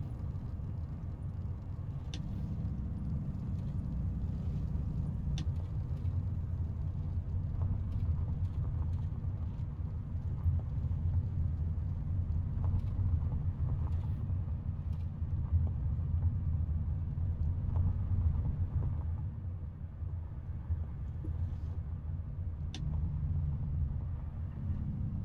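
Volvo FH 500 truck's 13-litre six-cylinder diesel running under way, a steady low drone with a few faint sharp clicks.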